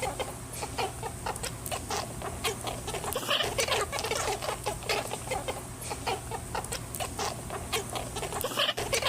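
Rabbit making rapid short calls, about four or five a second, with scattered clicks throughout.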